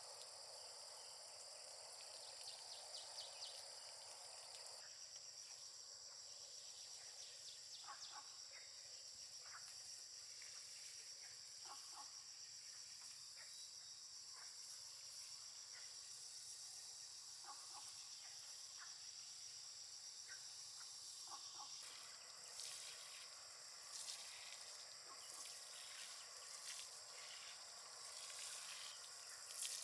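Rural outdoor ambience: a steady, high-pitched chorus of insects, with short high chirps scattered through the middle. The background shifts abruptly twice.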